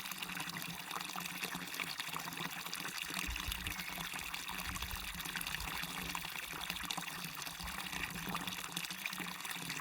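Small waterfall splashing and rushing steadily, with trickling water, and a low rumble for a few seconds in the middle.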